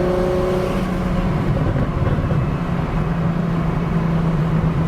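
Single-turbo BMW 335i's N54 inline-six running at steady revs, heard from inside the car as a steady engine drone. Two higher tones fade out within the first second.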